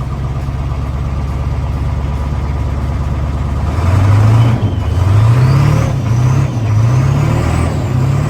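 Diesel pickup engine running just after a cold start: it idles roughly at first, then from about halfway is revved up and down several times.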